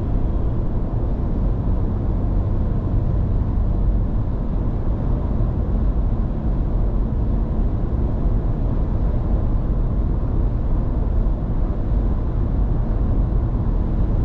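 Steady road and tyre noise of a Honda ZR-V cruising on an expressway, heard from inside the cabin: an even low rumble with no changes.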